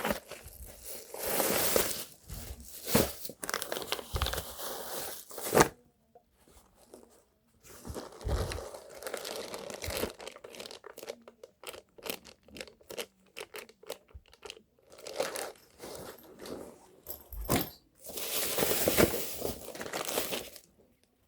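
Irregular rustling and crinkling, like material or plastic being handled. Longer bursts come near the start and near the end, with many sharp clicks and knocks in between.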